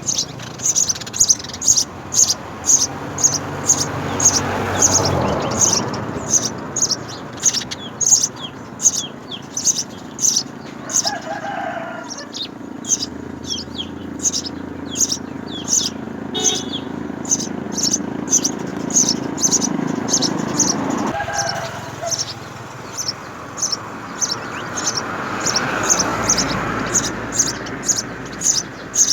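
House sparrows chirping at the nest: short, high cheeps repeated steadily about two to three times a second. Behind them is a low background rumble that swells and fades twice.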